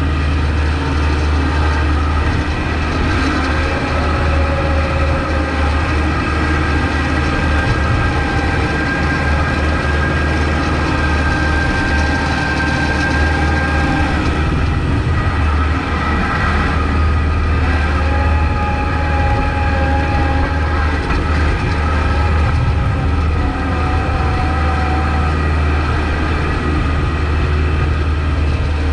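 Kubota MX5200 tractor's four-cylinder diesel engine running steadily while plowing snow, a deep drone with a higher whine over it that shifts in pitch now and then.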